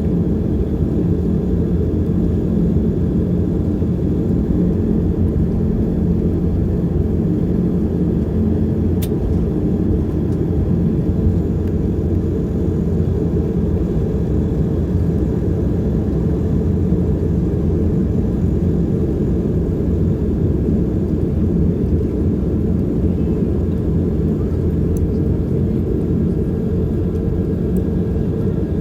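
Twin turboprop engines of an Embraer EMB-120 Brasilia heard from inside the passenger cabin: a steady, even low drone with constant propeller tones. There is a faint click about nine seconds in.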